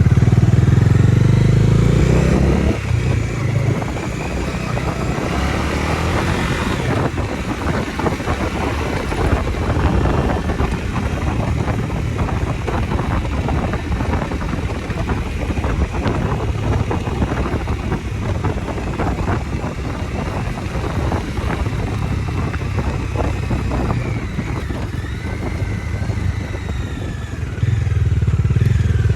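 Bajaj Dominar 250's single-cylinder engine running under way, its pitch rising and falling with the throttle. The engine is loudest for the first few seconds and again near the end, with a quieter, rough crackling stretch in between.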